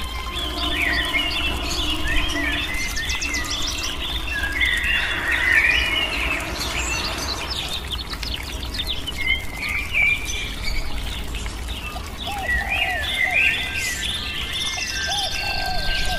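Many birds chirping and singing, short calls overlapping one another without a break.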